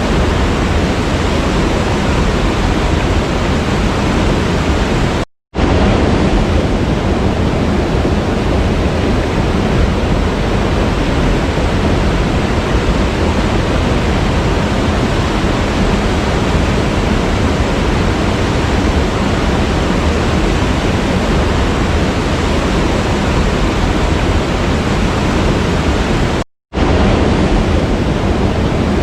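Waterfall rushing in a steady, dense hiss of falling water, cut to silence for a split second twice: about five seconds in and near the end.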